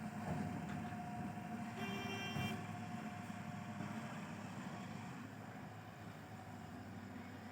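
Heavy diesel machinery engine running steadily, with a brief high-pitched tone of under a second about two seconds in.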